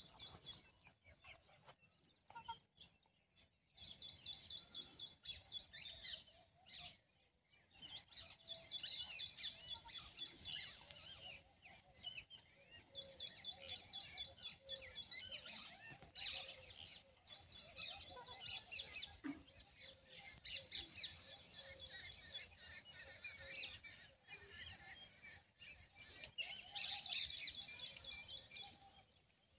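Faint chirping and twittering of small birds, in rapid high trills that come in runs of a few seconds with short pauses between, and softer lower chirps scattered among them.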